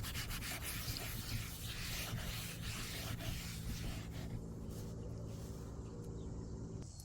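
SOS steel-wool soap pad scrubbing the stained basin of a bird bath in quick rubbing strokes. The scrubbing eases off about four seconds in.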